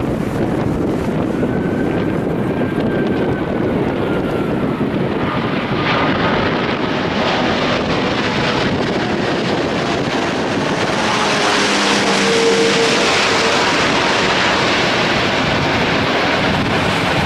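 Airbus A380's Rolls-Royce Trent 970 jet engines on landing approach, a rushing roar that grows louder as the airliner nears and passes, loudest about two thirds of the way through. Wind buffets the microphone throughout.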